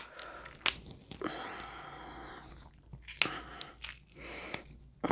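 A person eating seafood boil close to the microphone: chewing and crunching, broken by several sharp cracks.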